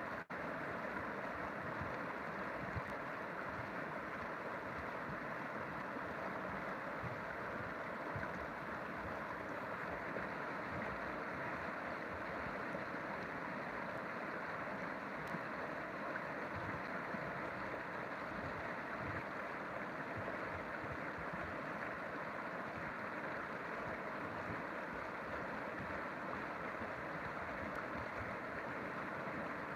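River water flowing, a steady, even rush with no letup.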